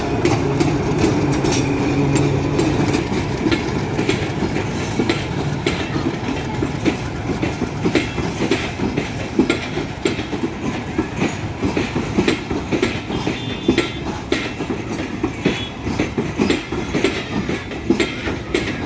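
Short local passenger train passing close by: a locomotive's low engine drone for the first few seconds, then the coaches' wheels clattering over the rail joints in an irregular clickety-clack.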